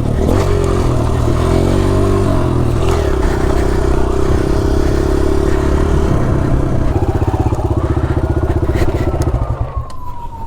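Motocross bike engine ridden hard on a dirt track, revving and dropping in pitch several times as it shifts gears and the throttle opens and closes, easing off near the end.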